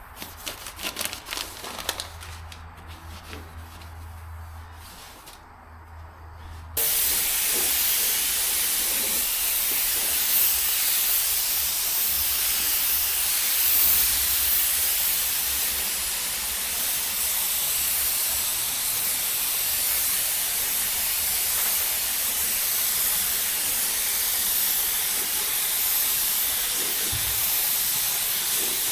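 Automotive paint spray gun spraying a coat of colour: a steady, loud air-and-paint hiss that starts abruptly about seven seconds in, after a few seconds of quieter handling clicks.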